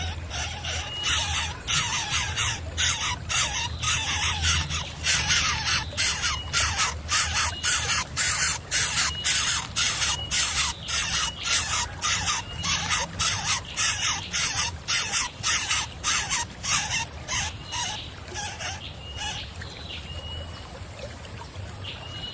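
Coucal chicks begging: rapid, repeated hissing rasps, about two a second, with short high chirps among them, weakening near the end.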